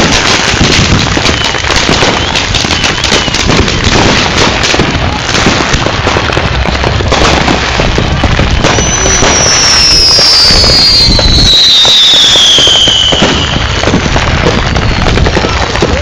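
Fireworks crackling densely and rapidly, like a long string of firecrackers going off. About halfway through, a high whistle slides down in pitch over several seconds before the crackling returns.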